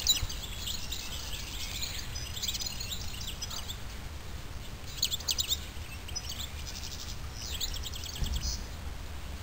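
Small birds singing in short, high chirping phrases, several times, over a faint steady low rumble of outdoor background noise.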